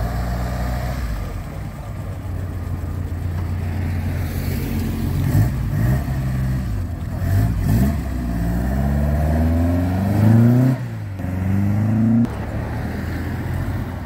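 A classic car's engine runs steadily, then accelerates hard, climbing in pitch through two gears with a sharp break at the change about eleven seconds in.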